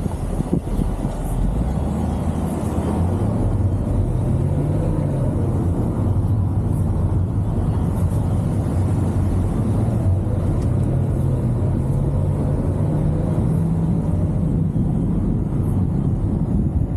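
Chevrolet Camaro SS's 6.2-litre V8 running under way over steady road noise. Its pitch rises and falls twice as the car accelerates and eases off.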